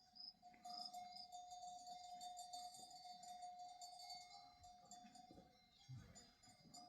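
Faint, continual clinking of sheep bells from a grazing flock, over a steady ringing tone that drops out near the end.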